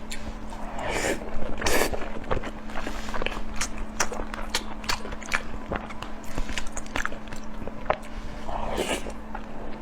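Close-up chewing and mouth sounds of a person eating: frequent short wet clicks and smacks, with louder noisy bites about a second in and again near the end, over a steady low hum.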